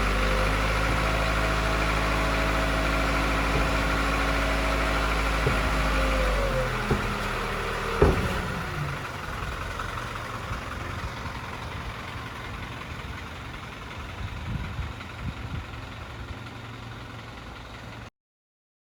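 Hino Dutro truck's diesel engine idling steadily, then switched off about six and a half seconds in and running down to a stop. A single sharp clunk follows about a second later, then only faint background with a few small knocks.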